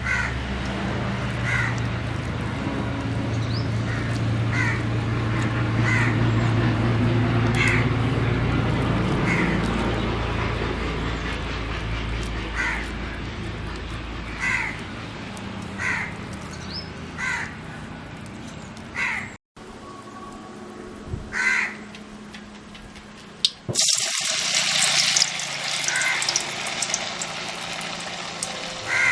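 Crows cawing again and again, short single caws about every second or so, over a low steady rumble. About three-quarters of the way through, a loud hissing rush starts suddenly and carries on, with the caws still heard over it.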